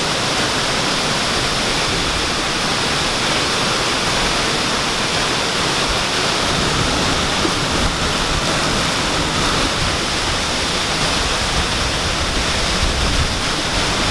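Bang Pae waterfall, a small jungle waterfall, rushing with a steady, even roar of falling water.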